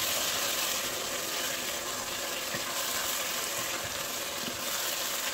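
Sorrel leaves sizzling steadily in hot oil in a pot, stirred with a wooden spoon, with a few faint ticks from the spoon.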